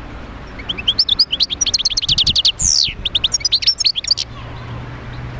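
European goldfinch singing: a fast twittering run of high chirps and trills lasting about three seconds, with one long falling note in the middle.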